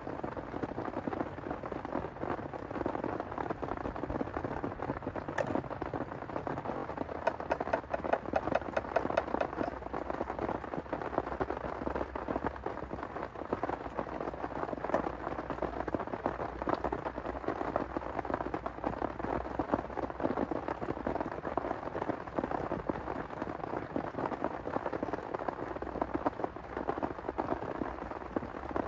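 Heavy rain falling: a dense, steady stream of drops striking a surface, with a flurry of sharper, louder taps about eight seconds in.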